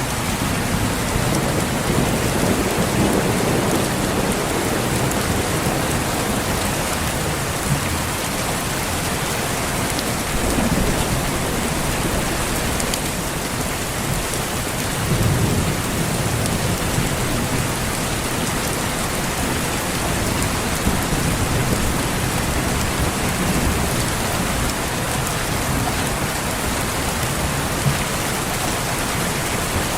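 Steady heavy rain with low rolls of thunder that swell and fade several times, the strongest a little past the middle.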